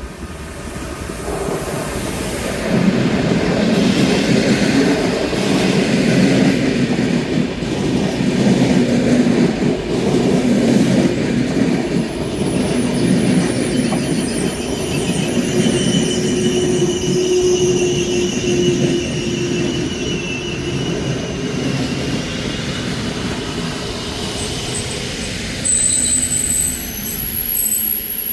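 EU160 Griffin electric locomotive hauling a train of passenger coaches along the platform, its wheels and the coaches rumbling steadily. Thin, high wheel or brake squeals come in over the second half and grow sharper near the end.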